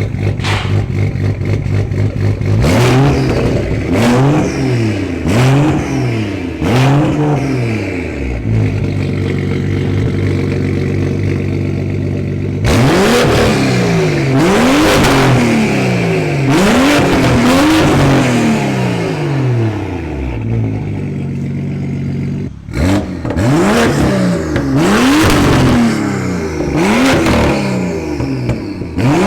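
BMW M235i's turbocharged 3.0-litre straight-six, straight-piped through a muffler and resonator delete with a custom Y-pipe, idling and being revved in repeated quick throttle blips, in three bursts with steady idle between.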